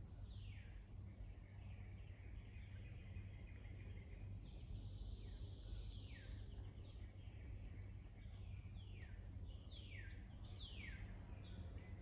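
Several birds calling, with repeated quick downward-sliding whistled notes, chattering and one held high note about halfway through, over a faint steady low rumble of background noise.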